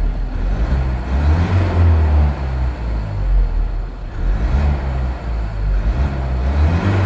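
The Renault Trafic's 2.0-litre twin-turbo diesel four-cylinder engine is revved from idle in three short throttle blips, each rising in pitch and falling back.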